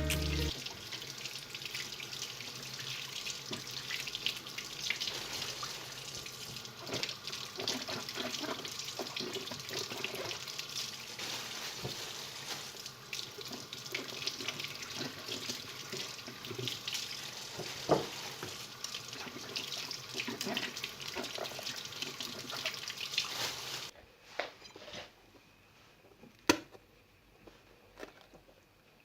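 Water running from a tap into a sink, splashing unevenly. It stops about 24 seconds in, leaving a few light knocks.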